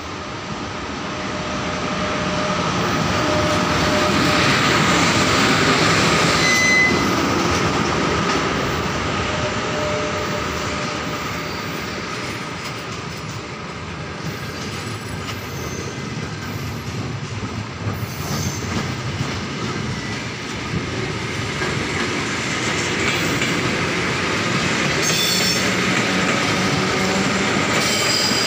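An EP1M electric locomotive and its passenger coaches roll in alongside the platform, with a continuous rail rumble, wheels clacking over rail joints and squealing. It is loudest as the locomotive passes about five seconds in, then swells again as the coaches keep rolling by.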